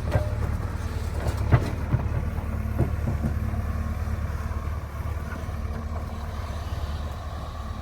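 Heavy diesel machinery engine running steadily, with a few sharp metallic knocks in the first three seconds.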